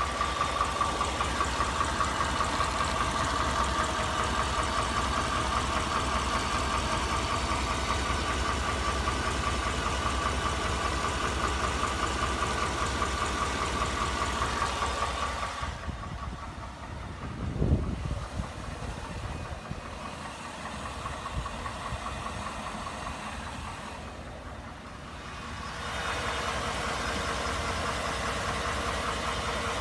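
2018 Ford F-150's 5.0 V8 idling with a rapid knocking, an engine knock that grows louder over time; the owner later traced it to a fault Ford addressed under service bulletin TSB 18-2354. The sound fades for a while past the middle, with a brief whoosh, then returns.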